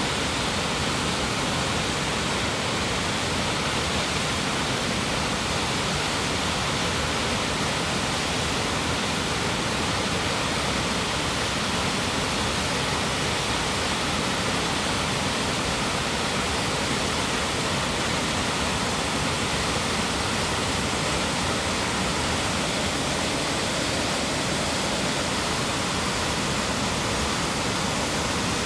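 Upper Cataract Falls in high water: a steady, unbroken rush of falling water.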